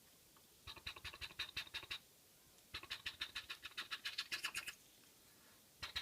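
Toy Harold helicopter clicking rapidly as it is played with, a fast ratcheting tick of small plastic parts, about a dozen clicks a second. It comes in three runs: one starting just under a second in, a longer one from about three seconds, and another starting near the end.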